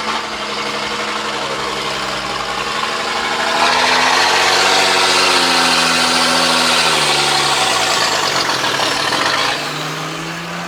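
Car engine idling, then revved about three and a half seconds in and held at higher revs for several seconds, dropping back toward idle near the end.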